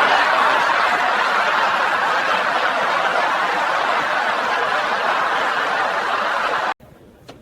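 A crowd laughing together, as a laugh track, at a steady level; it cuts off suddenly near the end.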